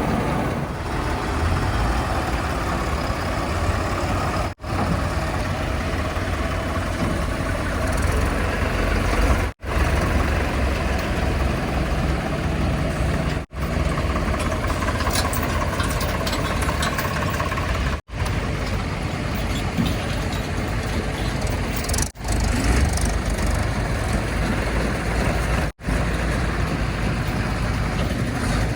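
Heavy diesel engine machinery running steadily, the work of a JCB 3DX backhoe loader and the tipper trucks it loads. The sound breaks off for an instant every four seconds or so, at splices between clips.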